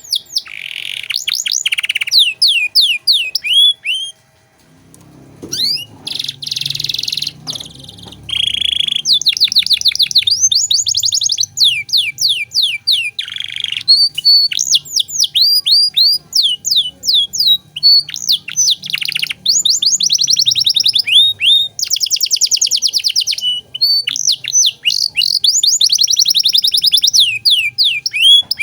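Domestic canary singing a long, loud, fast song of rapid trills and rolls, its repeated notes many to the second and shifting from phrase to phrase. The song breaks off briefly about four seconds in, with a low rumble underneath for a few seconds after.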